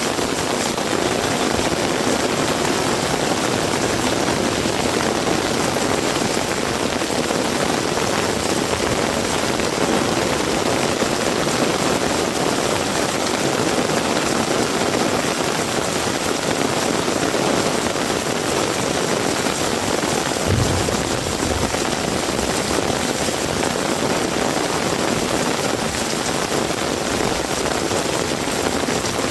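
Heavy rain falling steadily, an even hiss of rain on surfaces, with a brief low thump about two-thirds of the way through.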